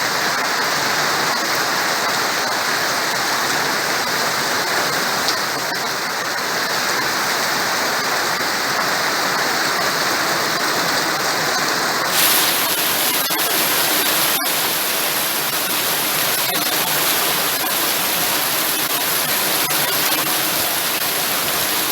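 Heavy rain pouring down steadily, a dense even hiss. Its tone changes abruptly about halfway through.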